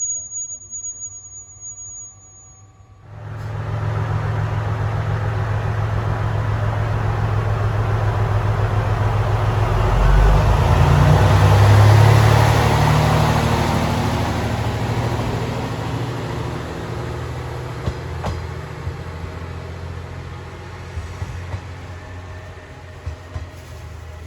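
Diesel railcar running past on the line: a low engine drone and rail noise that begin suddenly about three seconds in, swell to their loudest about halfway, then slowly fade.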